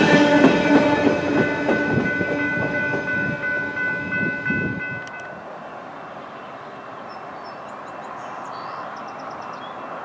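Freight train's wheels rolling away on the rails, knocking over rail joints, with several steady ringing tones above the rumble, fading as the last car passes. About five seconds in this stops abruptly and gives way to a quiet, even outdoor hush.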